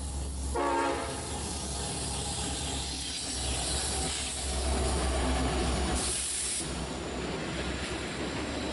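Norfolk Southern freight train's diesel locomotives passing close by, engines running with a steady low rumble, then intermodal container cars rolling past. A short horn toot sounds about half a second in, and a brief burst of hiss comes around six seconds in.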